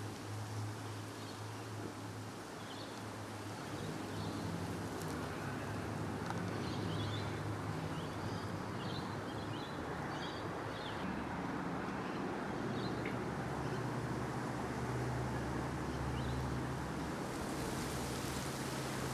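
Outdoor ambience: a steady rush of wind and distant traffic with a low hum, and faint bird chirps scattered through the first half.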